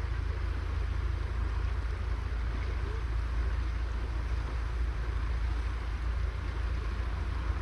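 Steady low wind rumble on the microphone, with an even hiss of outdoor background noise.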